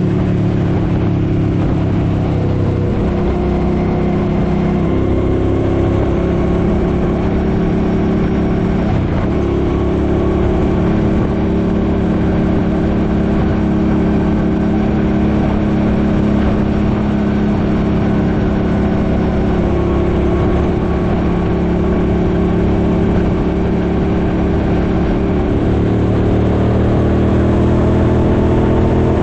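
Suzuki Boulevard M50's V-twin engine running steadily under way, its pitch shifting a few times with changes in speed, over a low rumble of wind on the microphone.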